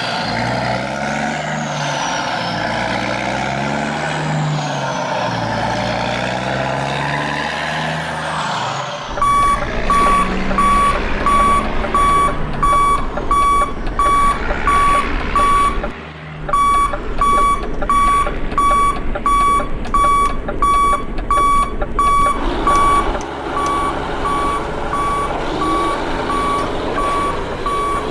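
RC dump truck running, its motor whining with shifting pitch. About a third of the way in, a reversing beeper starts sounding about twice a second, cutting out briefly near the middle.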